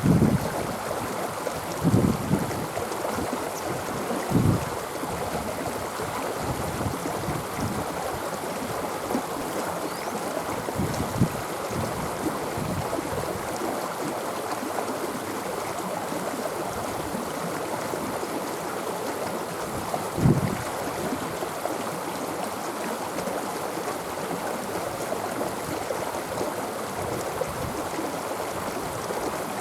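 Small stream running steadily over rocks, with a few brief low thumps, the loudest about twenty seconds in.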